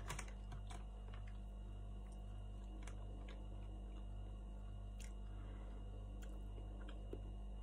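Faint chewing of a soft glazed doughnut, with small mouth clicks now and then over a steady low hum.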